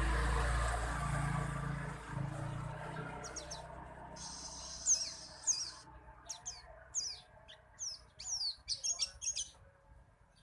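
White-eye (burung pleci) giving a series of short, high-pitched chirps, many sweeping quickly downward, the most intense ones in quick succession near the end. A low rumbling noise fades out over the first few seconds.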